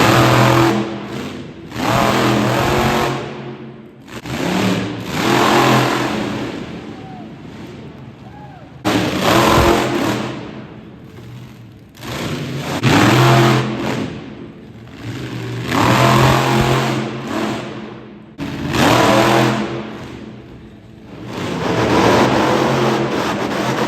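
Monster truck engine revving hard in repeated surges, about every three seconds, falling back between each burst of throttle.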